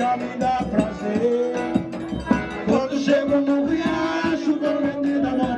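Upbeat Brazilian folk-dance music played by a band between sung verses: held melody notes over a steady percussion beat.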